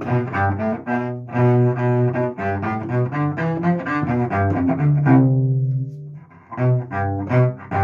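Solo cello bowed in a run of short, separate notes. About five seconds in, a longer note is held and fades away, and after a brief pause the short notes start again.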